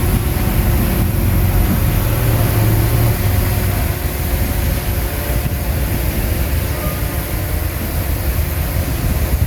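Bulldozer's diesel engine running steadily under work, a continuous low drone.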